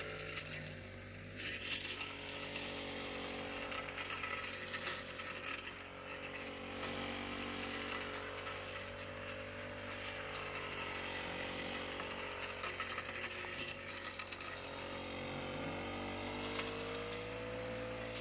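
Honda GX35 35.8 cc four-stroke brush cutter engine running at working speed while its blade cuts through tall dhaincha and millet stalks, the engine pitch wavering with the load and rising a little near the end.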